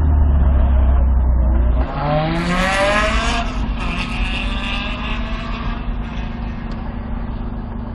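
Supra's engine running, its low drone cutting back sharply about two seconds in as the pedals are released, then a rising squeal with hiss for about a second and a half, after which the engine settles to a steady idle.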